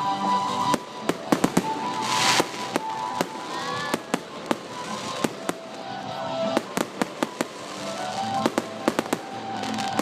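Fireworks display: many sharp bangs and crackling reports at irregular spacing, with a dense hissing rush about two seconds in. Music plays underneath.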